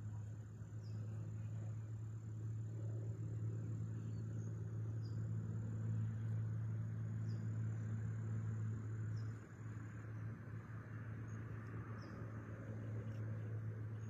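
Insects trilling in the evening: a steady, high-pitched trill that stops about ten seconds in, with short falling chirps every second or two. A low, steady hum runs underneath.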